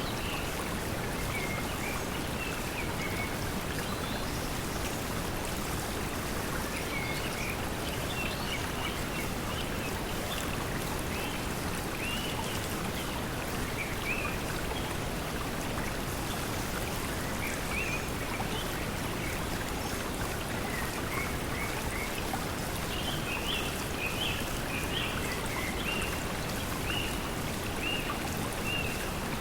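Steady pink noise blended with flowing stream water, with short bird chirps scattered throughout.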